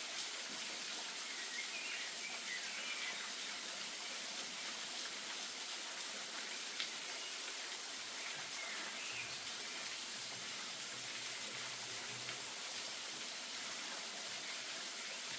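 Steady hiss of rain-like ambience, with a few faint bird chirps now and then.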